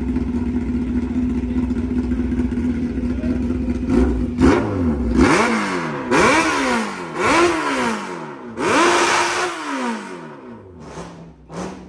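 Sport motorcycle engine idling, then revved about five times in quick succession from about four seconds in, each rev rising sharply and dropping back. The last rev is held briefly before the engine falls back.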